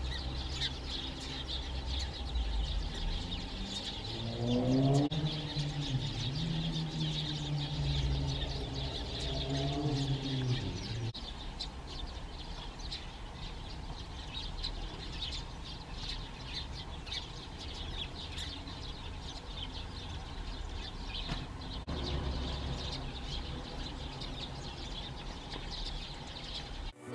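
A flock of Oriental greenfinches twittering, with fast, dense high chirps throughout over a low rumble. From about four to eleven seconds in, an engine rises in pitch and then runs steadily underneath the birds.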